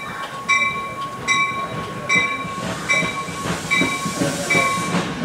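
A commuter train's bell rings steadily, about once every 0.8 s, as the train rolls through the station. The rumble and clatter of its wheels on the rails swells about three seconds in.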